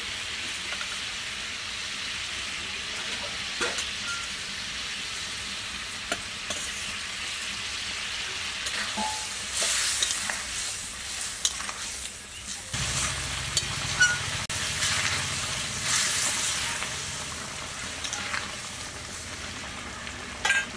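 Prawn curry gravy sizzling and bubbling in an aluminium karahi, a steady hiss with scattered clicks of stirring. The sizzle grows louder and more uneven about halfway through, and a low hum comes in after that.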